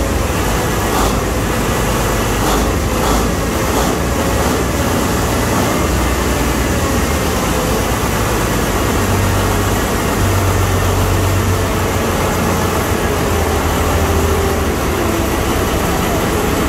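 Ship's diesel engine running in the engine room: a loud, steady drone, with a few short knocks in the first few seconds.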